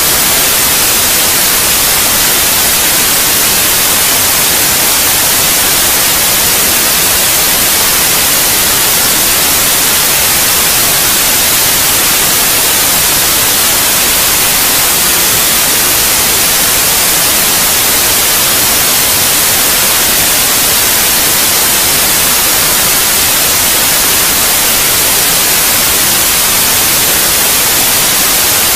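Steady white noise: a loud, even hiss that never changes, brightest in the treble.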